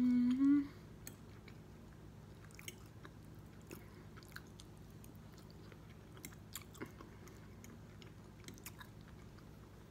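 A person chewing food at close range, with soft scattered mouth clicks and smacks, just after a short rising hummed "mm" at the start.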